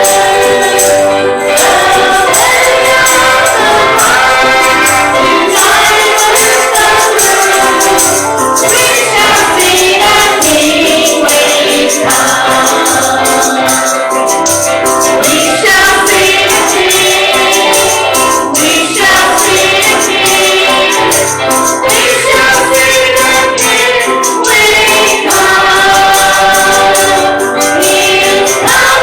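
Church congregation singing a gospel hymn together, with music accompanying them.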